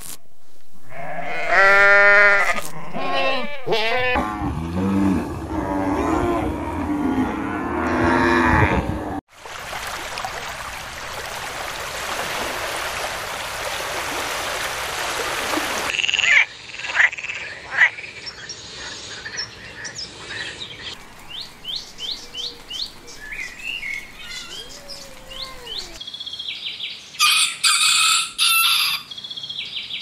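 A run of animal calls: sheep and lambs bleating in the first few seconds, then a stretch of steady noise, then a frog croaking in short calls and quick series of about four a second. Near the end a chicken calls loudly.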